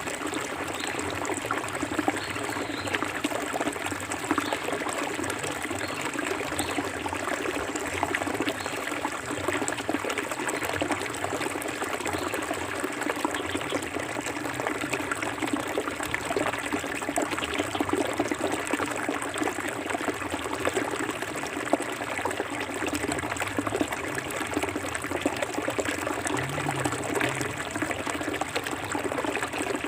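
Clear forest stream flowing over rocks, a steady trickling and splashing of water.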